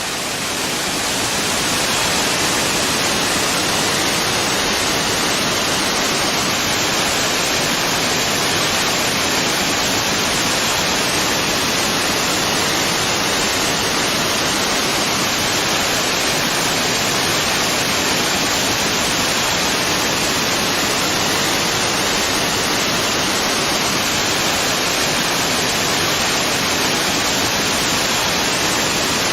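Waterfall: a steady, dense rush of falling water that fades in over the first two seconds.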